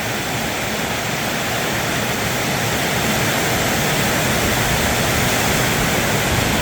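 Heavy storm rain pouring down and drumming on a metal roof, a steady, deafening rush that grows slightly louder.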